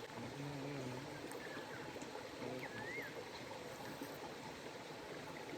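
Forest stream running, a steady even rush of water.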